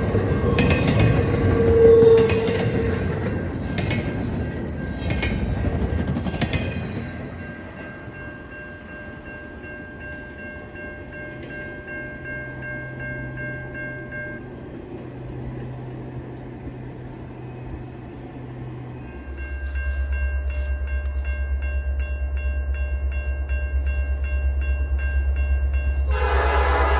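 A train passing with its wheels clattering rhythmically over the rails, fading after about seven seconds. Later a diesel locomotive's low engine rumble comes in, and near the end its horn sounds loudly.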